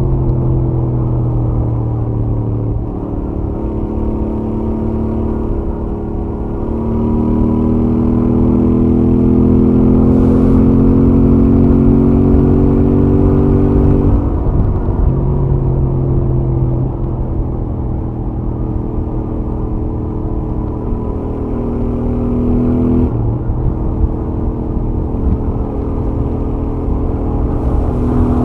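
Royal Enfield Interceptor 650's parallel-twin engine on its stock exhaust, running at highway speed from the rider's seat. It climbs slowly in pitch in several long pulls, and the pitch drops off sharply three or four times along the way.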